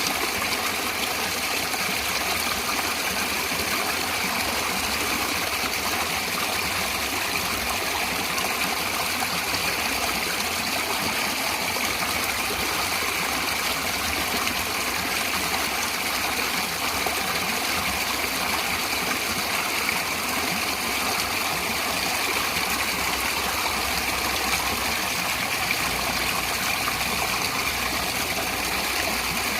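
Natural running water flowing steadily, a constant even rush with no change.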